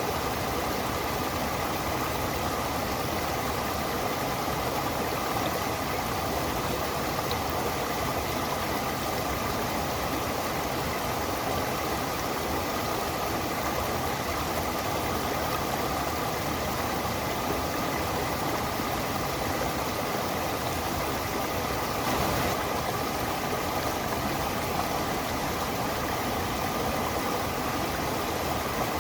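Stream water running steadily, an even rushing sound that does not change.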